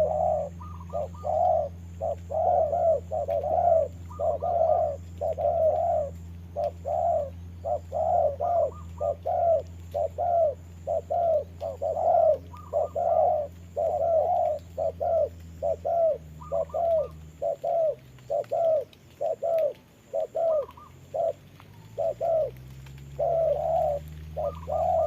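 Spotted doves cooing in quick runs of short, repeated notes, with the calls packed closely enough to suggest a caged decoy and a wild dove answering each other in a territorial contest. A low steady hum underneath fades out about two-thirds of the way through and returns, rising in pitch, near the end.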